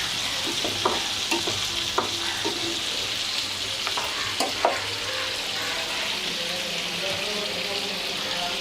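Chicken pieces frying in oil and butter in a frying pan, a steady sizzle, with a utensil knocking against the pan about five times in the first half.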